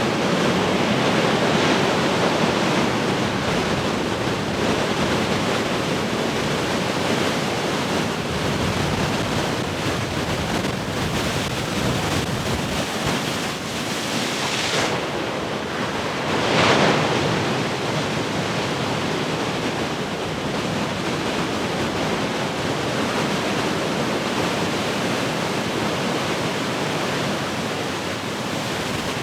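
Heavy ocean surf breaking and washing ashore in a continuous roar, with a wave crashing louder about 17 seconds in. Wind buffets the microphone.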